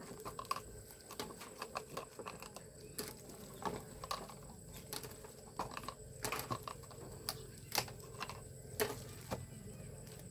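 Irregular light clicks and taps, one to three a second, over a faint steady hum.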